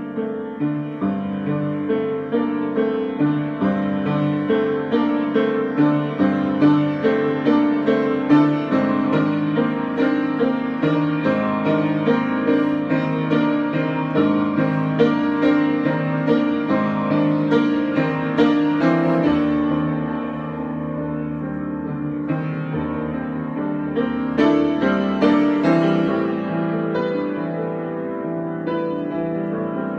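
Improvised solo piano: a steady run of quick notes over a held bass line. The playing thins out with a low sustained bass note from about twenty seconds in, then picks up again a few seconds later.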